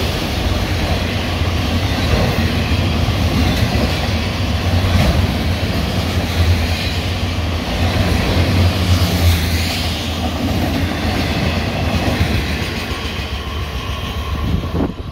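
Florida East Coast Railway freight train's autorack cars rolling past close by: a steady rumble of steel wheels on rail, with clickety-clack over the rail joints. The sound falls away at the very end as the last car clears.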